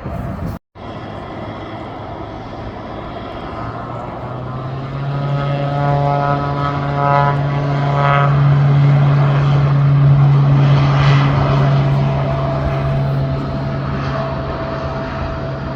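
Propeller-driven airplane's engines droning, building to a peak about two-thirds of the way through and then easing off, with a steady low hum and a higher whine over it.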